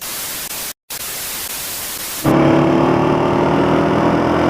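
A burst of even static-like hiss, broken by a brief dropout, cuts off abruptly about two seconds in. In its place comes a louder steady hum with several held tones.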